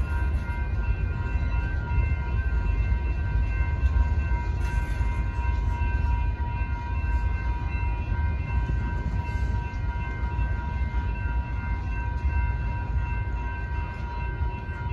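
Freight cars of a BNSF manifest train rolling past over a grade crossing with a heavy, continuous low rumble. The crossing's warning bells ring steadily above it as high, even tones.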